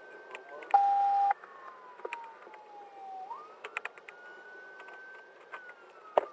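Police patrol car siren on a slow wail, its pitch falling, rising again and falling, heard from inside the patrol car. A loud short electronic beep sounds about a second in, with a few light clicks scattered through.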